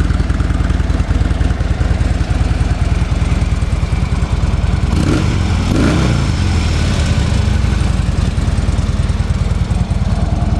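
A 2013 Harley-Davidson Tri Glide's 103 cubic inch Twin Cam V-twin engine, on its factory exhaust, idles with a steady low pulse. The throttle is blipped once about five seconds in, so the revs rise and fall back to idle.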